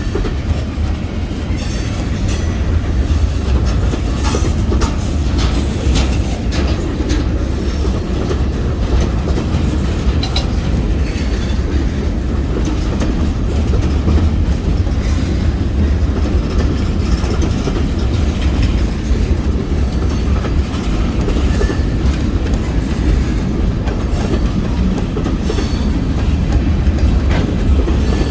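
Kiamichi Railroad freight train rolling past: a steady heavy rumble with the clickety-clack of wheels over rail joints, clicks coming at an uneven pace all through.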